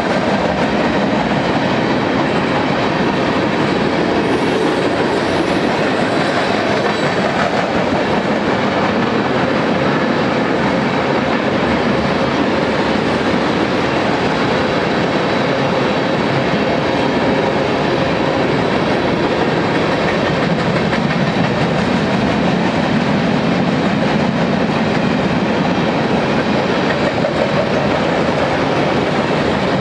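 Freight cars of a long mixed manifest train (tank cars, boxcars and covered hoppers) rolling steadily past close by, their steel wheels clattering and rumbling over the rails without a break.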